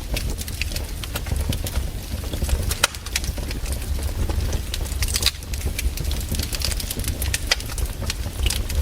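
Wood campfire burning, crackling with irregular sharp snaps and pops over a steady low rumble.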